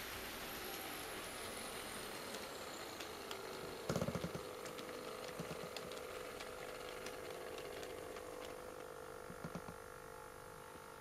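HO-scale model freight train, KATO DD51 diesel models hauling tank cars, rolling along the track. There is a steady rolling hiss with scattered light clicks, then a knock about four seconds in, after which a steady mechanical hum continues.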